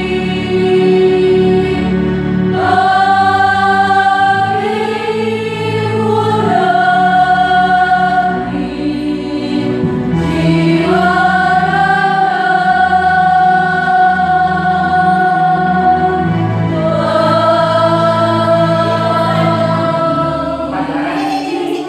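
A choir singing in several parts, holding long sustained notes that move to a new chord every few seconds.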